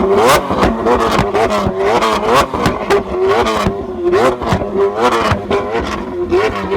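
Lamborghini Aventador's V12 with a Capristo aftermarket exhaust, blipped again and again. Each blip is a short rising rev, and sharp pops from the exhaust come between the revs.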